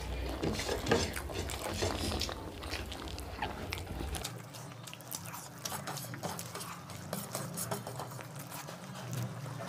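Close-miked eating sounds: chewing and wet mouth clicks as mouthfuls of fried rice are eaten by hand, with fingers squishing and pushing the rice across the plates. The sound is a dense run of small clicks and crackles.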